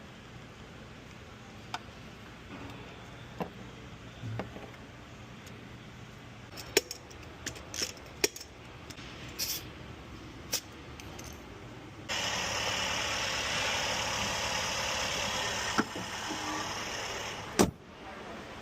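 Car engine running in a workshop with scattered clicks and knocks. About twelve seconds in, a loud steady rushing noise starts suddenly, holds for about four seconds, then eases off. A sharp knock follows near the end.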